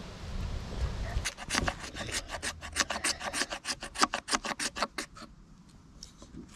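Fatwood, resin-rich pine, being scraped in quick repeated strokes, about five a second, to raise fine shavings for lighting a fire. The scraping stops about five seconds in. A low rumble fills the first second.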